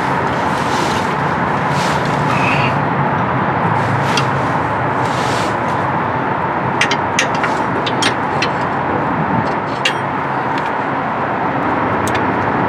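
Steady rushing background noise with a faint hum, and a few scattered sharp metal clicks and taps from hand tools working at a hard-to-reach starter mounting bolt, mostly in the middle stretch.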